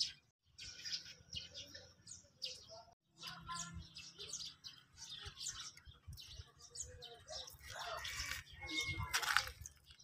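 Small birds chirping, many short calls overlapping, with a low hum underneath. The sound cuts out briefly twice, once just after the start and once around three seconds in.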